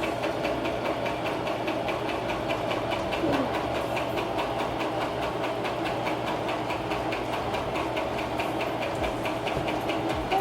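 Brother LX3817A electric sewing machine running steadily while stitching fabric: motor hum under a fast, even clatter of needle strokes.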